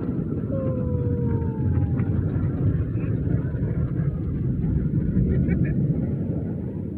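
Automatic drive-through car wash heard from inside the truck: a steady low rushing noise as the wash works over the vehicle. A short falling squeal comes about half a second in.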